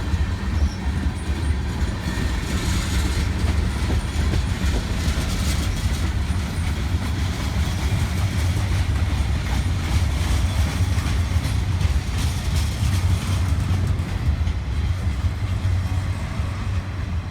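Long CSX freight train rolling past: a steady rumble of railcars with wheels clicking over the rail joints.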